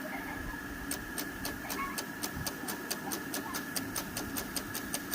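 5-inch gauge live steam locomotive hissing steadily, with sharp regular clicks that start about a second in at about four a second and slowly quicken.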